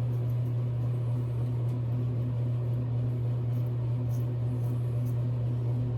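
A steady low hum, with faint, brief scratchy strokes here and there, typical of a double-edge safety razor gliding lightly back and forth over wet skin.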